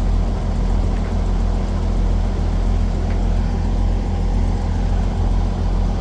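Stationary train idling with a steady low hum, with no change in pitch or level.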